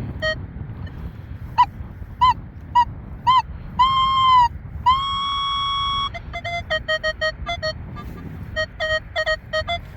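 Nokta Legend metal detector sounding its target tones: a run of short repeated beeps as the coil sweeps back and forth over a target reading a solid 20, which the detectorist guesses is a pull tab, with a longer beep and a steady tone lasting about a second midway. Wind rumbles on the microphone underneath.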